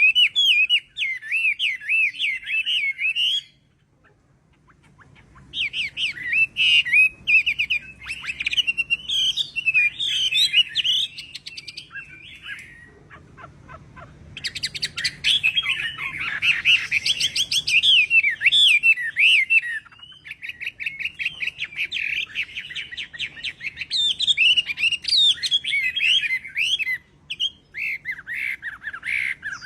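Chinese hwamei singing a long, varied song of rapid whistled phrases that swoop up and down, breaking off about three and a half seconds in and resuming a couple of seconds later, with a softer stretch near the middle.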